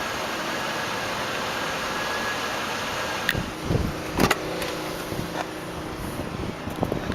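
Lincoln Town Car limousine's V8 engine idling steadily, with a few sharp clicks about three and four seconds in.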